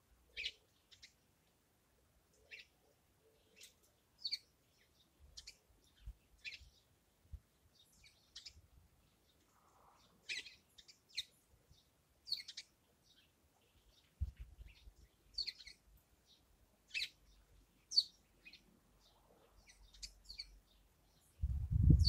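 Small garden birds chirping: short, high calls every second or two. A loud low rumble comes in near the end.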